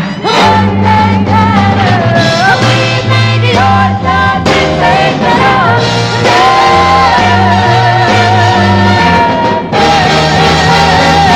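Live pop music: female voices singing long, wavering held notes over a backing band with a steady bass line.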